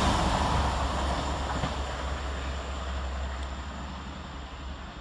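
Two coupled Class 450 Desiro electric multiple units running fast through a station and moving away. The rail and train noise fades steadily.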